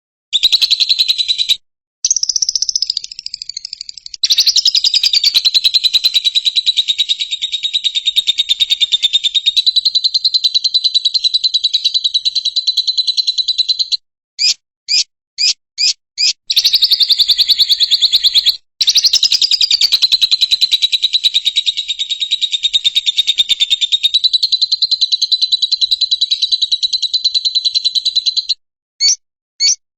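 Lovebird's long, rapid chattering song, a fast trill held for runs of about ten seconds. The runs are broken by a few short separate chirps, five quick ones near the middle and two near the end.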